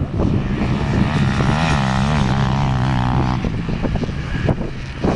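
Trail motorcycle engine running at a steady pitch for about three seconds, with a slight rise and fall in revs midway, then dropping away into rougher noise and a few knocks near the end.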